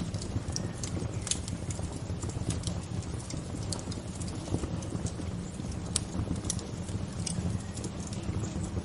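Wood bonfire crackling: irregular sharp pops and snaps, the strongest about a second in and at six seconds, over a steady low rumble.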